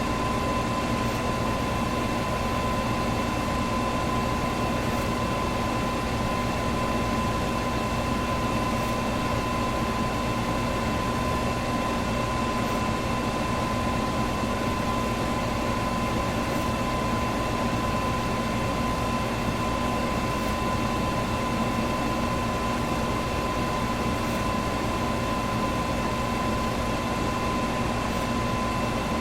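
Electric fan running steadily: an even rushing whir of moving air with a steady motor hum underneath.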